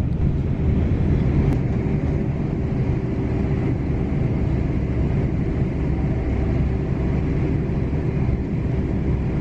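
Passenger train running at speed, heard from inside the carriage: a steady rumble of the wheels on the track with a faint constant hum over it.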